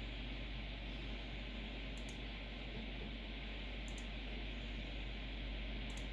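Steady hiss with a low mains hum, broken by faint, sharp clicks about every two seconds.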